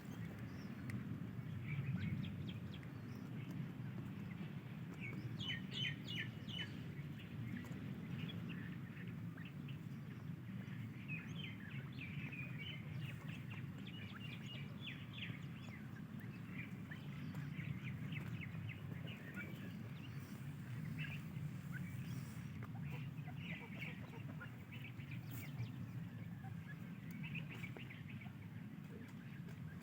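A group of francolin chicks peeping, with many short high chirps scattered through, over a steady low hum.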